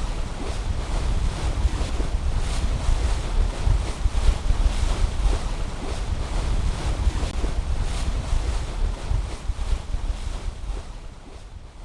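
Wind buffeting the microphone aboard a sailing yacht, with water washing along the hull. The sound fades out near the end.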